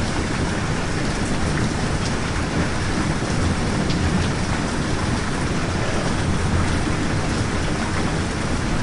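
Steady heavy rain: a dense, even hiss with a low rumble underneath and scattered sharper drop ticks.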